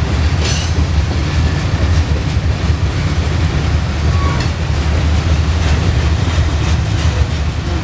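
Freight cars of a Norfolk Southern grain train rolling past: a steady low rumble of wheels on rail with occasional faint clicks, and a short faint squeal about four seconds in.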